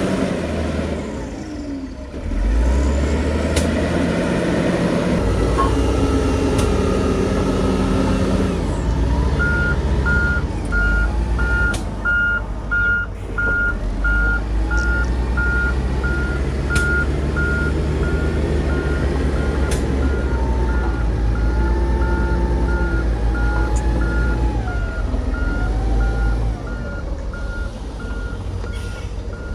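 Heavy diesel machinery running, with a reversing alarm starting about a third of the way in and beeping steadily at one pitch, about one and a half beeps a second.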